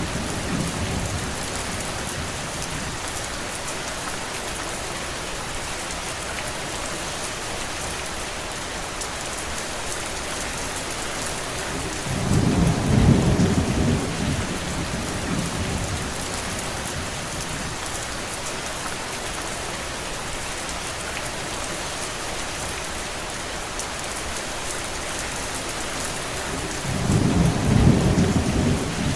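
Steady heavy rain falling on a surface. Twice a low rumble swells up for about three seconds, about twelve seconds in and again near the end.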